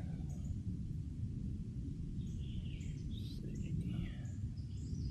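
Birds calling with a few quick high chirps, some falling in pitch, about halfway through, over a steady low outdoor rumble.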